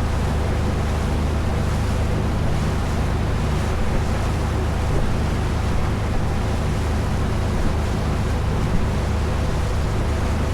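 A boat engine drones steadily as the boat runs across open water. Water rushes along the hull and wind buffets the microphone.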